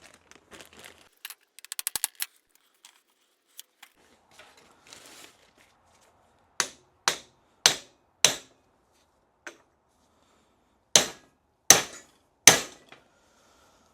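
Sharp metal-on-metal blows: four in quick succession about six and a half seconds in and three more near the end, with a few lighter clicks before them. They are the blows that drive a U-joint bearing cap into the front axle yoke, deep enough for its retaining clip to go on.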